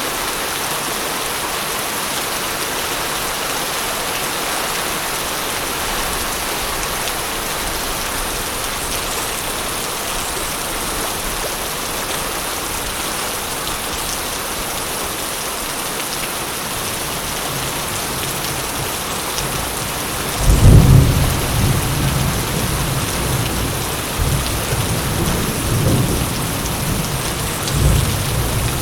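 Steady rain falling, then about two thirds of the way through a loud clap of thunder breaks in and rolls on in low rumbles over the hiss of the rain.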